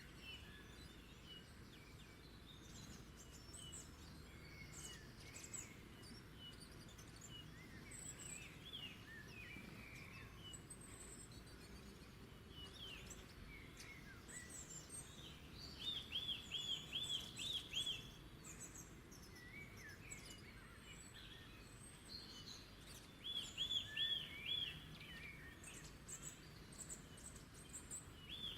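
Several wild birds singing and calling, with scattered high chirps and whistles throughout. One bird twice sings a quick run of six or seven repeated notes, the loudest sound, about halfway through and again near the end. Under them runs a faint, steady low background hum.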